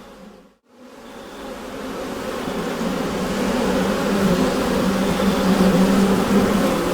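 A colony of bees buzzing inside a beehive, a dense steady hum. It fades out to a moment of silence about half a second in, then swells back up over the next few seconds.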